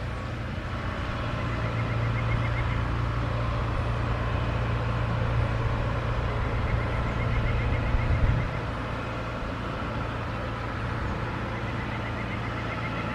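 Vehicle engine idling with a steady low hum and a brief louder surge about eight seconds in. A short high trill repeats three times, about five seconds apart.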